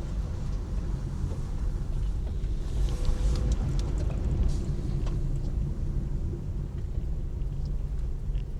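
Steady low rumble of a road vehicle, swelling about three seconds in with tyre noise and a few light clicks before settling back.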